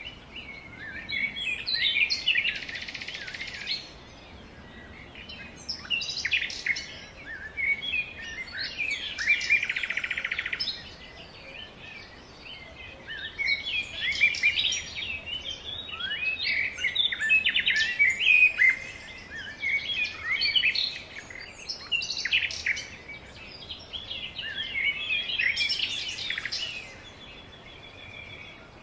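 Songbirds singing: bursts of chirps, quick whistled notes and buzzy trills, in phrases every few seconds.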